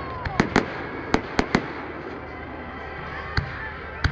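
A series of sharp cracks and bangs in irregular clusters, about eight in all, over a steady background noise.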